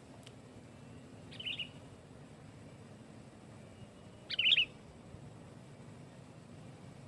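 Sooty-headed bulbul giving two short, bubbling call phrases, a fainter one about a second and a half in and a louder one about three seconds later.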